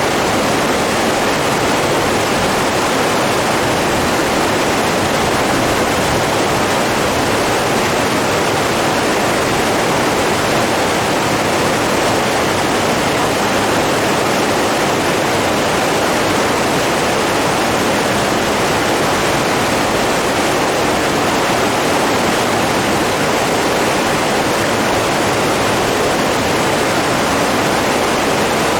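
Steady rushing of flowing water, an even, unbroken sound with no rise and fall of waves.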